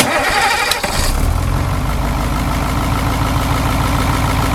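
Blue Bird school bus engine starting, with a rough uneven first second before it settles into a steady idle.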